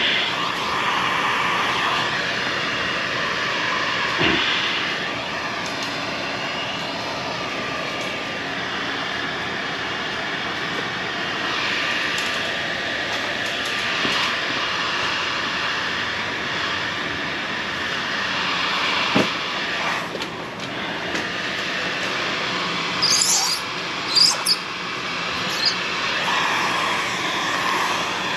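A steady whirring hum like a blower or fan motor. A few short, sharp high squeaks come near the end.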